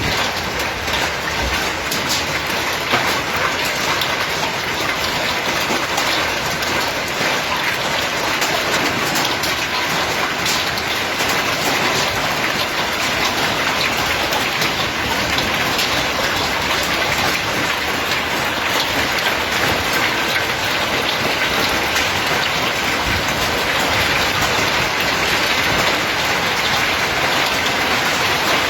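Hailstorm pelting down: a loud, steady, dense hiss of hail and rain striking surfaces, with many sharp ticks of individual stones hitting, thickest in the first half.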